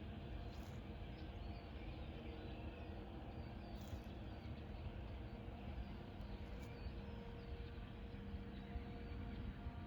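Faint bird chirps over a steady outdoor background rumble.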